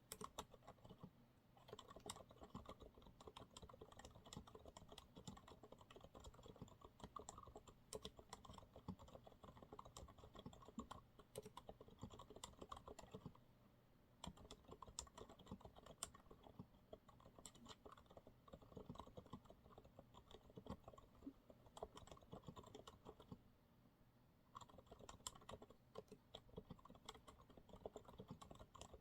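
Continuous typing on a Monsgeek MG108W keyboard with TTC silent brown switches: quiet, irregular keystrokes, with brief pauses about 14 and 24 seconds in.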